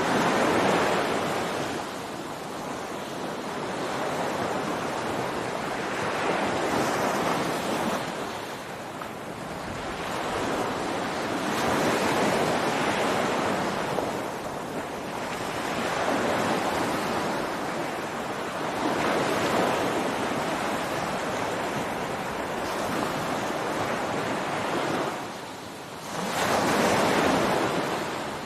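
Ocean surf breaking on a beach: a steady rushing wash of waves that swells and recedes every three to six seconds, with a strong wave breaking near the end after a brief lull. Some wind on the microphone.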